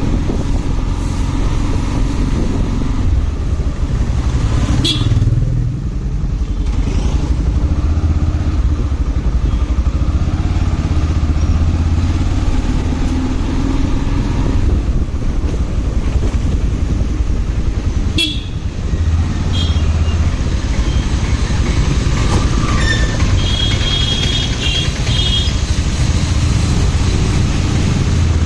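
Motorcycle riding in traffic: steady engine and road rumble, with a few short horn beeps, a cluster of them near the end.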